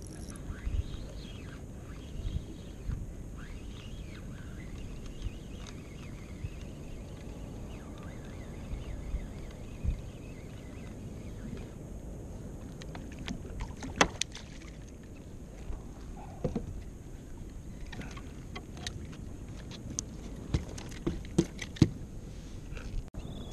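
Water lapping and sloshing against a fishing kayak's hull, with scattered sharp knocks and clicks, the loudest about halfway through and a cluster near the end.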